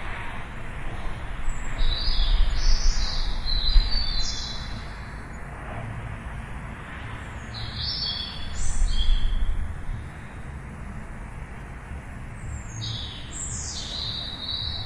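A songbird singing three short phrases of quick high chirps, each a couple of seconds long with a few seconds' pause between, over a steady low rumble.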